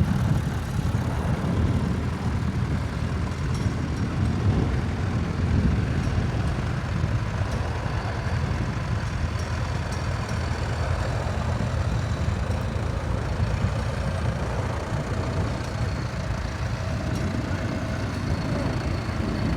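Tractor engine running steadily, with most of its sound low in pitch.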